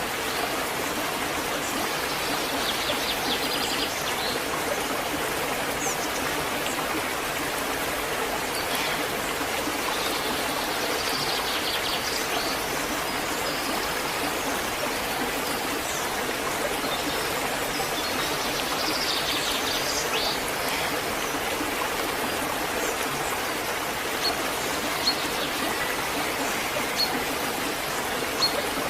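Waterfall: a steady, even rush of falling water. A few brief higher chirps come and go over it.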